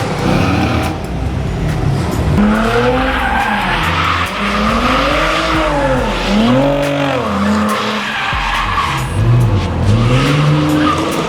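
Car engine revving up and down over and over while its tyres squeal and skid through a drift.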